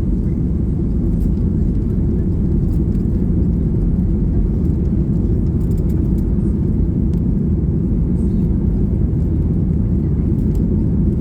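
Steady low rumble of a Boeing 737 MAX 8's CFM LEAP-1B jet engines and the rush of air, heard loud inside the passenger cabin as the airliner takes off and climbs.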